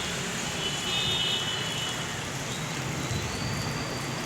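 Steady background road-traffic noise, with faint high-pitched tones about a second in and again near the end.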